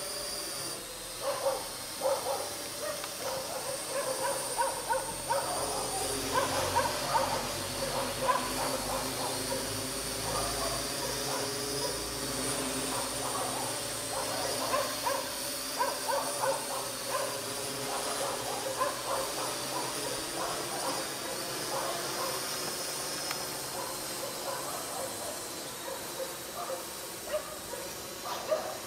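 A dog barking over and over, under the steady high-pitched whine of a Parrot AR.Drone 2.0 quadcopter's motors and propellers in flight.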